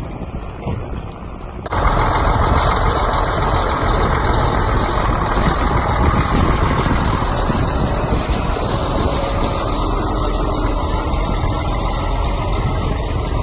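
Logging truck driving by, its diesel engine running steadily; the sound jumps suddenly louder about two seconds in.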